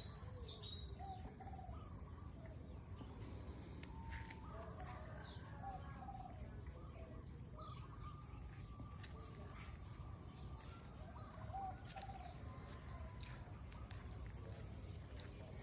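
Several birds chirping and calling, short scattered notes and warbles, over a steady low background rumble.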